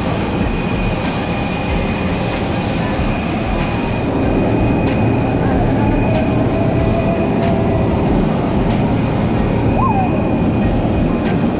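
Steady loud rumble of a moving train heard from inside the carriage, with sharp clicks about every second or so.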